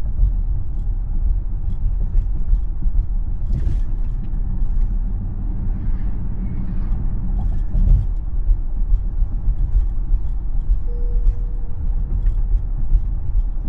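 Road and tyre rumble of a Tesla driving, with small knocks and creaks. A faint steady tone sounds for about a second and a half near the end.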